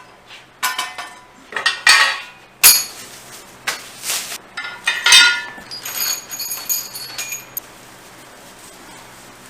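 Hard kit parts clinking and knocking together as they are handled and laid out, a quick run of sharp clacks and rattles with a few ringing metallic clinks. The handling stops about three-quarters of the way through, leaving a faint steady hum.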